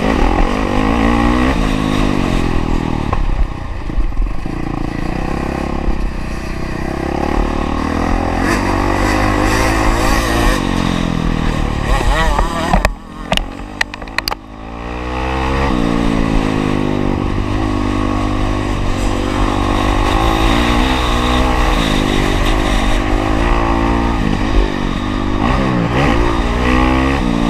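Honda CRF450R four-stroke single-cylinder motocross engine, heard from on the bike, revving up and down as it is ridden hard round the track. About halfway the engine drops off the throttle briefly with a few sharp knocks, then revs back up and carries on.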